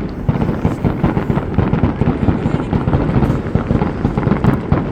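Aerial fireworks going off in a dense, rapid barrage of bangs, one shell bursting hard on the next.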